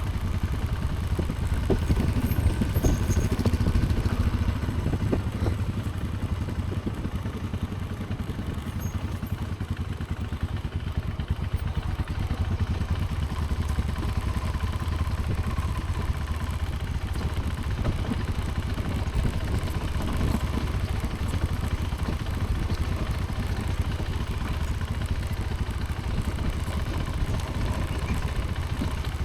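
Motorcycle running while riding, a steady low rumble, a little louder about two to four seconds in.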